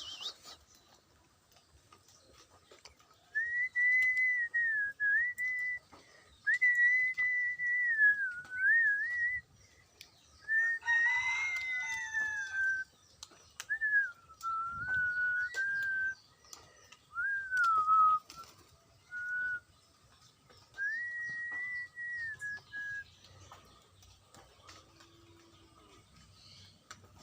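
A bird whistling clear, single-pitched phrases one to three seconds long that rise and fall in pitch, about ten in all with short pauses between. Around eleven seconds in, a harsher, fuller call sounds over one of the phrases.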